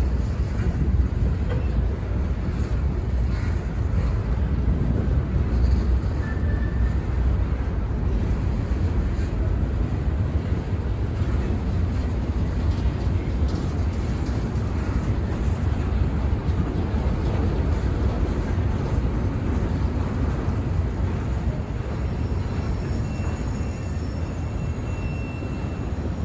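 Freight train rolling past, a steady low rumble of railcars on the track that eases slightly near the end.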